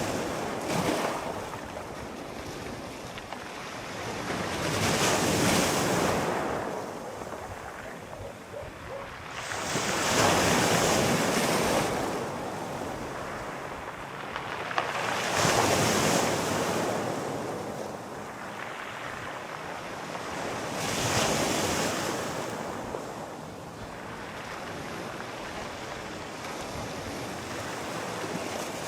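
Sea waves rolling in and breaking, each one swelling to a rushing hiss and then falling away, about one every five seconds. Over the last several seconds there is a lower, steadier wash.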